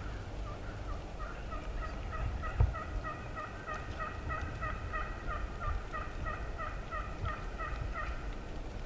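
A long, even series of turkey yelps, about three a second, each note dropping in pitch. One thump about two and a half seconds in.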